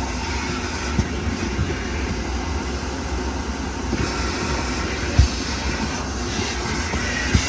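Steady low rumble of a vehicle on the move, with a few short bumps.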